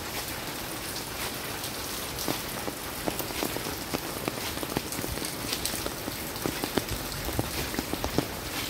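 Steady rain falling, with many sharp, irregular drop impacts landing close by on a hard surface.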